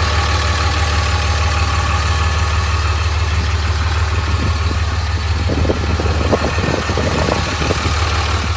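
5.9L Cummins inline-six turbodiesel in a Dodge pickup idling steadily, warming up after a cold start. Through the second half a series of irregular short knocks and scrapes sounds over the idle.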